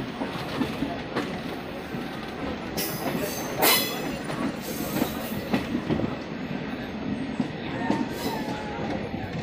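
Passenger train running, heard from the open door of a moving coach: wheels clattering on the track over a steady rush of noise, with one brief louder burst about four seconds in.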